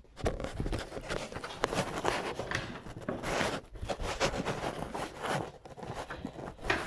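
Irregular rustling and scraping with scattered clicks: things being handled close to the microphone.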